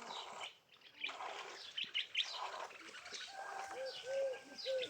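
Small birds chirping with quick high notes. From about three-quarters of the way in, a low cooing note repeats about twice a second, a dove or pigeon.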